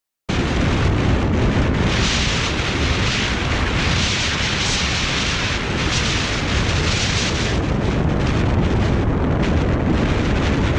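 Loud, steady rushing noise with a heavy low rumble, starting abruptly a fraction of a second in, with a brighter hiss for several seconds in the middle.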